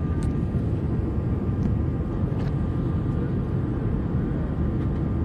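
Steady low rumble of engine and airflow noise inside an Airbus A321 passenger cabin in flight, with a faint steady tone and a few light clicks.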